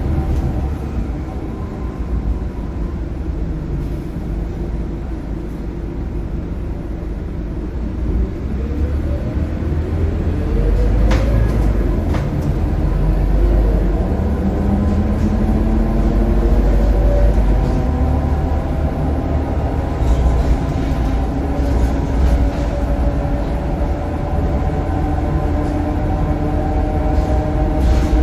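Scania K230UB bus with its Scania DC9 engine and ZF Ecomat automatic gearbox: a low rumble, then from about eight seconds in a rising whine as it picks up speed. A single click comes near the middle, and the bus then runs on with steadier tones that climb slowly.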